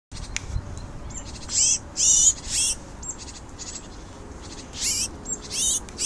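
A small bird giving loud, harsh calls, each short and falling in pitch, in groups of two or three, with fainter high calls in between. The bird is being held in the hand after capture in a mist net.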